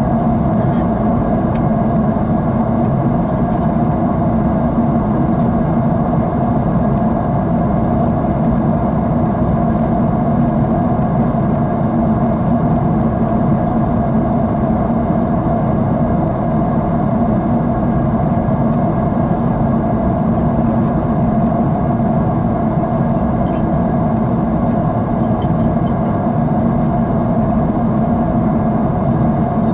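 Jet airliner in flight heard from inside the passenger cabin: the engines and rushing air make a steady, unchanging drone with a low hum.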